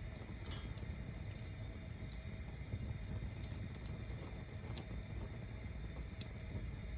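Log-tower bonfire burning: a steady low rumble of flame under scattered sharp crackles and pops from the wood.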